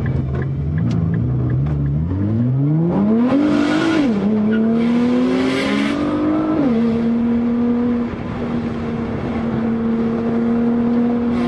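A car engine heard from inside the cabin, pulling hard: the revs climb, drop at an upshift about four seconds in, climb again and drop at a second upshift, then hold steady. A rush of noise rises with each climb.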